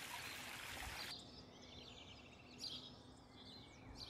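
Faint birdsong: quick chirps and trills. A soft steady hiss of running-water ambience stops suddenly about a second in, just before the chirps take over.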